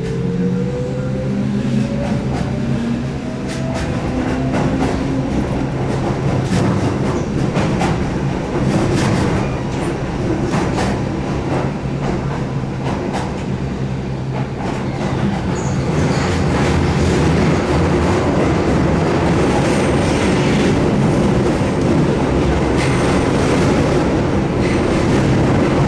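Keihan 8000 series electric train running through its underground section. The whine of its field-added-excitation-controlled DC traction motors rises in pitch as it accelerates in the first few seconds, over clicks of wheels on rail joints. The running noise grows louder about two-thirds of the way through.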